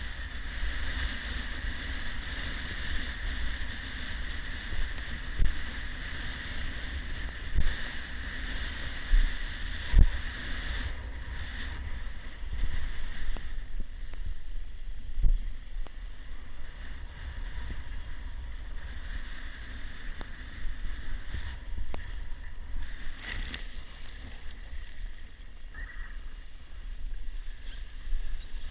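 Wind buffeting the microphone in irregular low thumps over a steady rush of sea and breaking waves.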